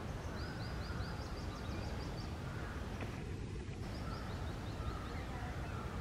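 A bird calling in two runs of quick, high repeated notes, the first just after the start and the second about four seconds in, over a steady low outdoor rumble.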